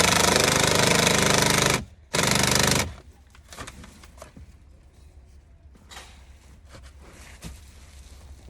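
A power tool run in two bursts, the first about two seconds and the second under a second after a brief pause, with a rapid hammering rattle; light clicks and handling noise follow.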